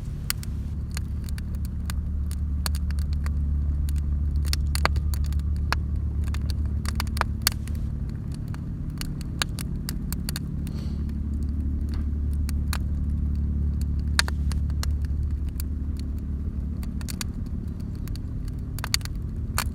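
Wood bonfire crackling and popping in sharp, irregular snaps, over a steady low rumble.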